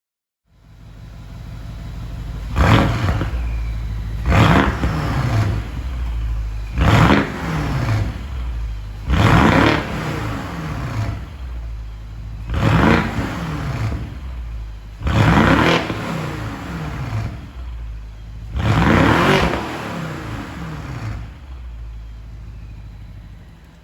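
BMW 650i twin-turbo V8 idling through an aftermarket valved rear exhaust, with the throttle blipped about seven times. Each rev rises sharply and falls back to idle.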